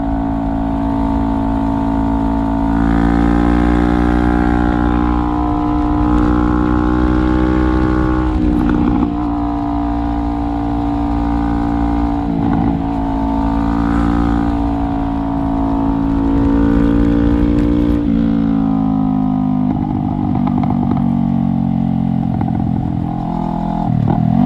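2017 Honda CBR500R parallel-twin engine through a straight-pipe exhaust, heard onboard while riding, over a low wind rumble. The engine note climbs about three seconds in and then holds steady. It breaks off briefly about a third of the way in, again around halfway, and just before the end.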